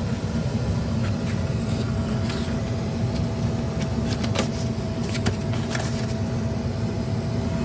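Indoor air handler of a central air conditioner running in cool mode: a steady low hum and rush of the blower moving air through the evaporator coil, with a thin steady whistle from air leaking out of a gap in the evaporator cover. A few faint clicks sound over it.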